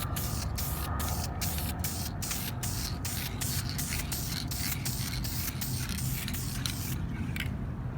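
Aerosol can of Dupli-Color vinyl and fabric spray paint hissing in a quick run of short bursts, about two to three a second, as paint is sprayed onto a center console. The spraying stops about seven seconds in, followed by one last brief burst.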